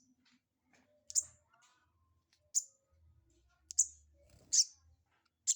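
Young sogok ontong sunbird calling: five short, sharp, high chips spaced about a second apart.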